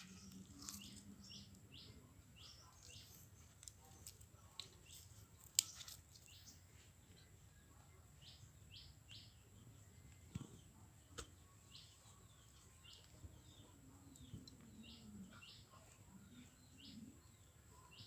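Near silence, with faint, repeated short bird chirps and a few soft clicks, the clearest about five and a half seconds in.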